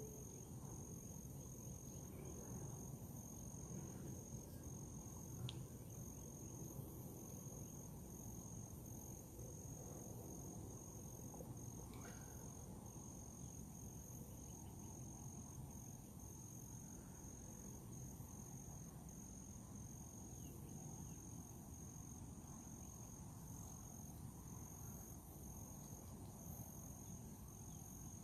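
Faint insect chorus of crickets or katydids: a high, evenly pulsed trill with a steady high buzz, over a low background hum.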